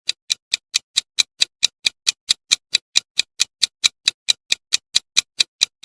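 Clock-like countdown ticking, an even run of sharp ticks at about four or five a second, timing the viewer's guess.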